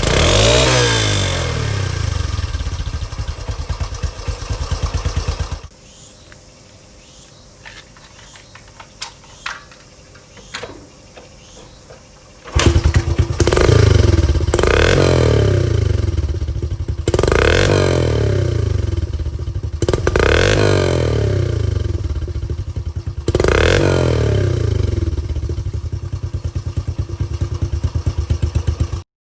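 Honda CT110 Hunter Cub's single-cylinder four-stroke engine running loud through its stock muffler, blipped up and back down, most likely with the end diffuser pulled out. After a few seconds it gives way to a much quieter stretch with a few clicks. Then the engine comes back in suddenly and is revved four times, each a quick rise and fall, before it cuts off abruptly.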